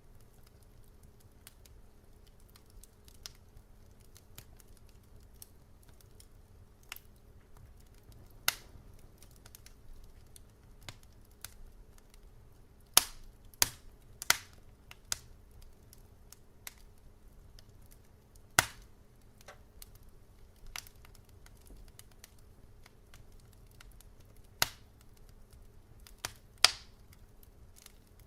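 Wood fire crackling: irregular sharp pops and snaps over a low steady background, with a cluster of louder pops about halfway through and single loud cracks later on.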